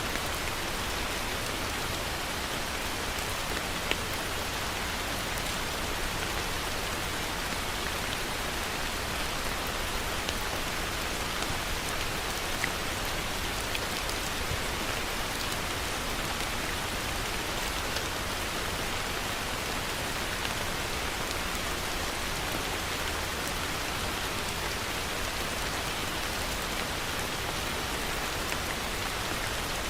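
Heavy rain falling steadily: a dense, even hiss of drops, with a few sharper individual drop ticks standing out now and then.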